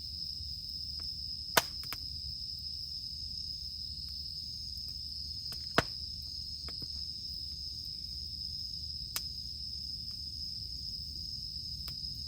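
Wood campfire crackling, with two sharp pops, about one and a half seconds in and near the middle, and a few fainter snaps later. Under it runs a steady high drone of cicadas.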